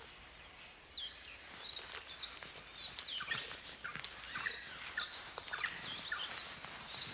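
Birds calling outdoors: many short, high chirps and squeaky calls, irregular and overlapping, starting about a second in over a faint background hiss.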